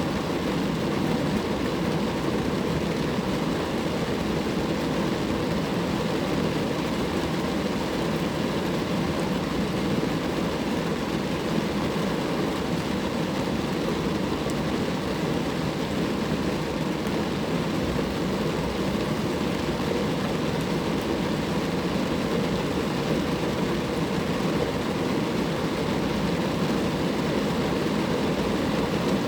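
Steady rain falling on a car.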